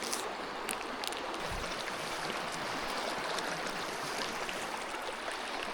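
Creek water running steadily, a constant even rush of flowing water, with a few faint ticks in the first second or so.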